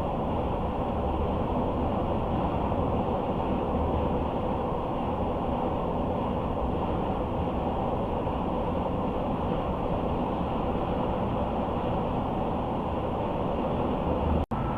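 Car driving at road speed: a steady rumble of tyres on the road and the running engine. It cuts out for an instant near the end.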